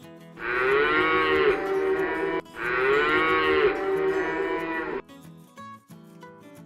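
Two long cow moos, one right after the other, each arching up and back down in pitch, over soft acoustic guitar music.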